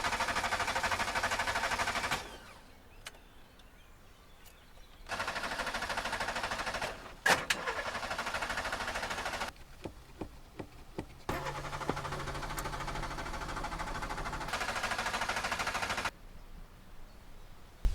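Seat Ibiza's starter motor cranking the engine three times in a row, each attempt a few seconds long with pauses between, the engine not catching: a car that won't start. A sharp click comes partway through the second attempt.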